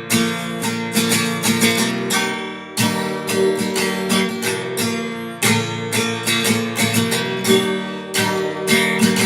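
Acoustic guitar strummed steadily in an instrumental break between sung lines, chord after chord with no voice.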